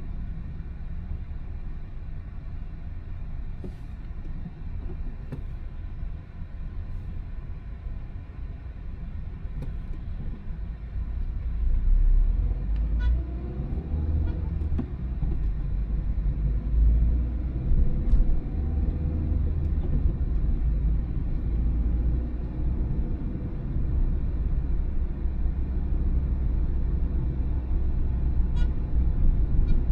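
Car driving on a town road: a steady low rumble of engine and tyre noise. It gets louder about twelve seconds in, with the engine pitch rising as the car picks up speed.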